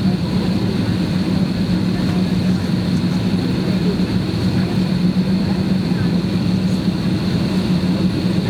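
Steady cabin hum inside an Airbus airliner, with a constant low drone and a higher air hiss from the ventilation and aircraft systems running.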